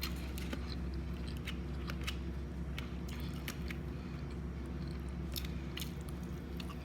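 Close-miked chewing and biting of soft breakfast food, with many small wet mouth clicks scattered irregularly, over a steady low hum.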